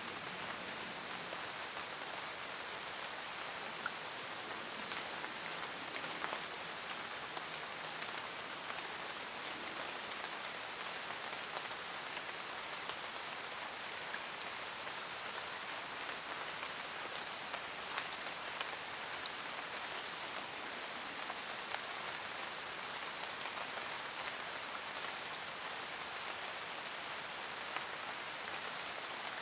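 Steady rain falling in a forest, an even hiss with scattered individual drops tapping close by.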